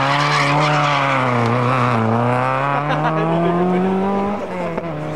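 Rally car engine under hard load: the revs sag over the first two seconds, then climb steadily before a sudden drop at an upshift about four seconds in, after which they climb again.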